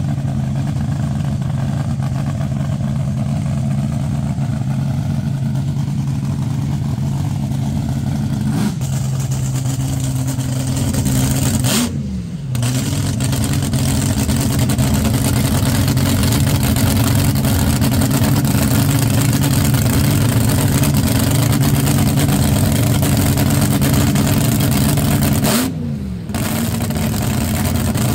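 Car engine running steadily at an even pitch, its note dropping briefly and climbing back twice, about twelve seconds in and again near the end.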